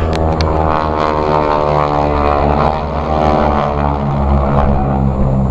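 Radial piston engines and propellers of a pair of SNJ-2 warbirds running loud in a low pass on a simulated bomb run: a steady, many-toned propeller drone.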